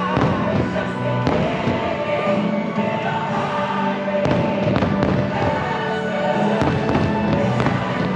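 Fireworks show soundtrack music playing steadily, with several sharp fireworks bangs cracking over it.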